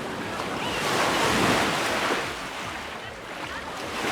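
Small Mediterranean waves breaking and washing up the beach: one wash swells to its loudest about a second and a half in and ebbs away, and the next begins to build near the end.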